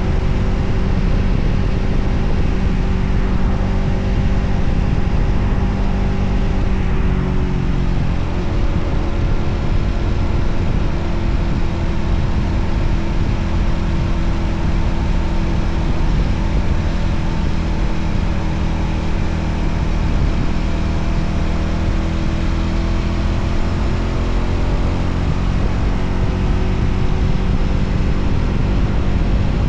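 Voge 300ACX motorcycle's single-cylinder engine running on the move, with heavy wind rumble on the microphone. The engine note drops about eight seconds in, then holds steady.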